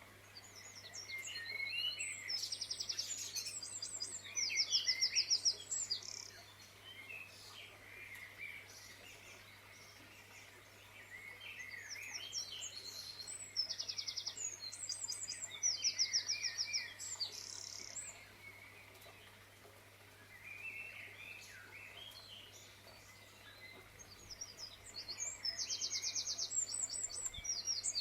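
Songbirds singing and chirping, with three louder bouts of fast trilled phrases about ten seconds apart, over a faint steady low hum.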